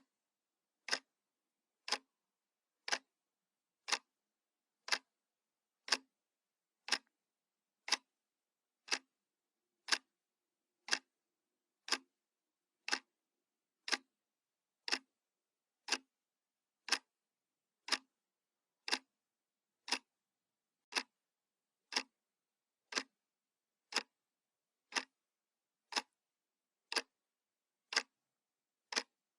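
Analog wall clock ticking, one sharp tick per second, even and unchanging.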